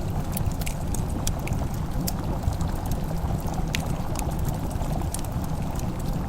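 Wood fire crackling: sharp, irregular pops several times a second over a steady low rumble.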